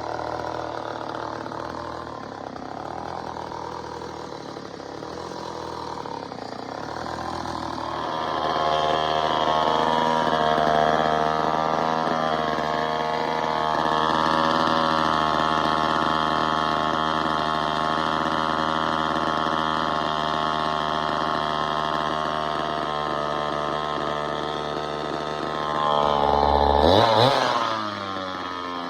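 Early-1970s Craftsman chainsaw, a Poulan-built two-stroke, running on its own: rough and low for several seconds, then picking up to a faster, steadier speed. Near the end it is briefly revved up and drops back.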